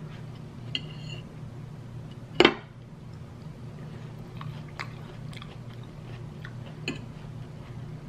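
A person chewing and biting into pieces of fresh fruit, with a metal fork clicking against a plate now and then; one sharp click about two and a half seconds in is the loudest sound. A low steady hum runs underneath.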